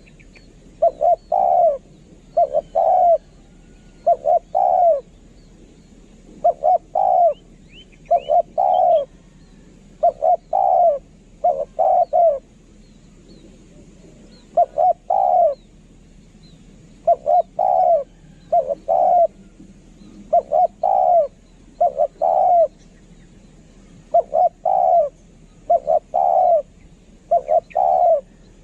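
Spotted dove cooing over and over, in short phrases of two or three low coos repeated every second or two. Faint high chirps of other small birds sit underneath.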